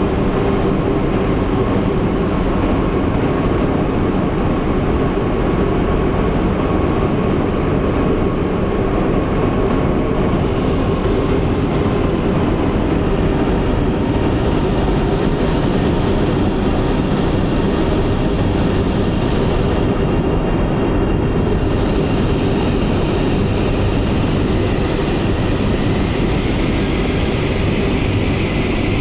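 CRH6F intercity electric multiple-unit train running into a station: a steady, loud rumble of running noise with faint whining tones over it.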